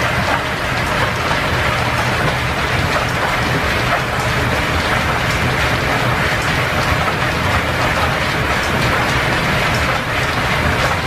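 Steam-driven line-shaft metal lathe running under power while taking a light turning cut: a steady, even rushing noise with a low hum underneath.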